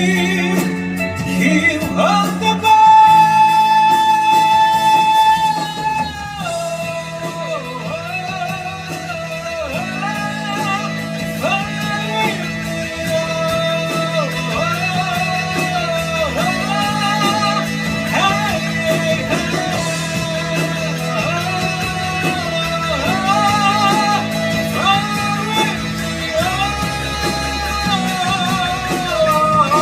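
Rock band music with no lyrics: a held, bending lead melody over guitar and a steady bass line, with a long loud note about 2 to 6 seconds in.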